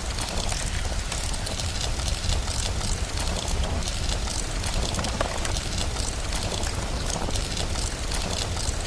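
Steady rain with a low rumble underneath, and fine crackling from a fireplace.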